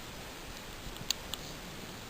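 A sleeping dog's faint snoring breath under a steady hiss, with three short sharp clicks a little past the middle, the second one the loudest.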